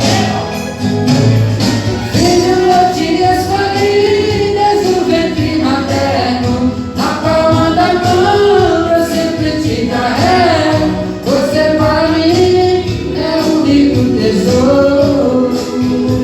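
Gospel song performed live: a singer's held, sliding vocal lines over band accompaniment.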